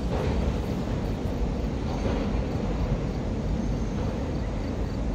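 CSX autorack freight train's last cars rolling away across a steel railroad bridge: a steady low rumble of wheels on rail.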